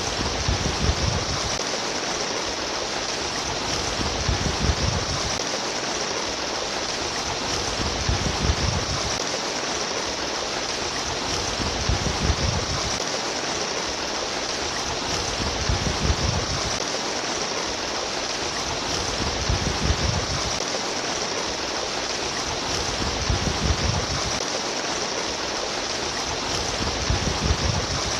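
Babbling stream water running steadily, with a low swell in the rush that comes back about every four seconds.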